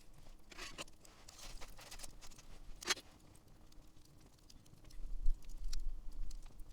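Wood campfire crackling, with scattered small pops and one sharp pop about three seconds in. A low rumble joins near the end.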